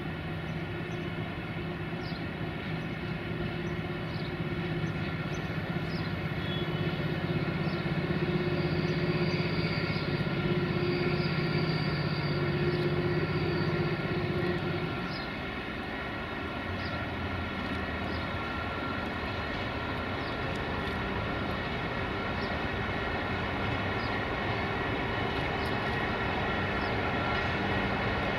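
A train running at the station with a steady mechanical hum and held drone; the low drone drops lower and quieter about halfway through.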